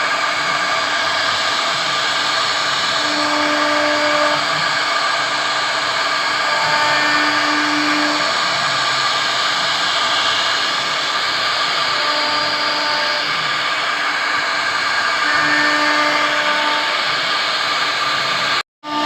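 CNC router spindle running steadily as it carves wood, a loud even whir with short humming tones that come and go every second or two. The sound breaks off briefly near the end.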